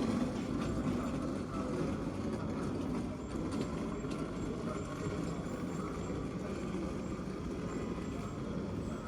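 A train running, with a steady low noise that holds without clear breaks or impacts.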